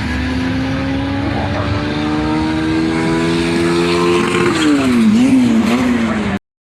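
Car engine running with its revs climbing slowly and steadily for about four seconds, then dropping and rising and falling a few times. The sound cuts off suddenly near the end.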